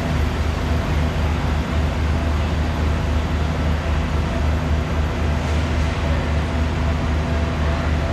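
Locomotive standing at the platform, running steadily: a constant low hum with a few steady tones above it over a hiss.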